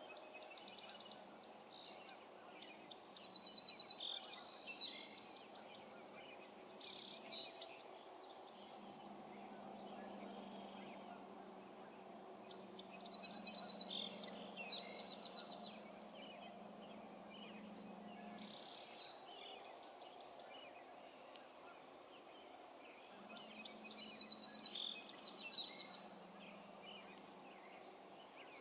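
A songbird singing three separate phrases about ten seconds apart, each a couple of seconds long and opening with a rapid, high trill followed by a few shorter notes. A faint, steady low hum lies under it.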